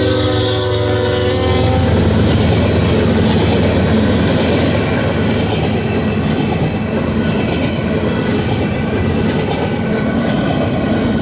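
Freight train led by a GE ES44DC diesel locomotive passing close by. The locomotive's air horn chord trails off about a second and a half in, leaving the steady rumble of the diesel and the clatter of wheels and cars on the rails.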